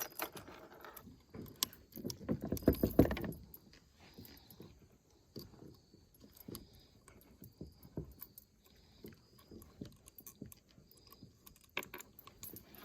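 Irregular light knocks and metallic clinks, a denser cluster about two to three seconds in, from handling a freshly caught bowfin and a bent metal spinnerbait in a kayak.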